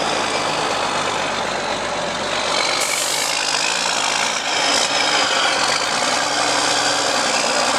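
Diesel log truck's engine running steadily as the truck backs up slowly in reverse gear, with a thin high whine over it and a short hiss about three seconds in.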